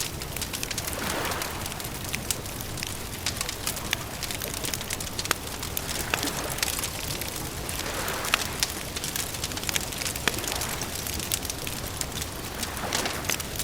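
Wood campfire crackling, with frequent sharp pops and snaps over a steady hiss, and soft swells of noise rising and falling every few seconds.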